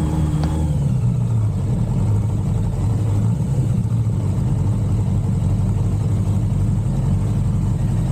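1985 Suzuki GSX-R750F's air/oil-cooled inline-four engine idling steadily.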